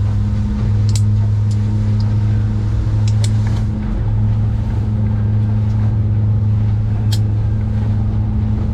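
Engine running steadily with an even low drone, with a few brief sharp clicks about one, three and seven seconds in.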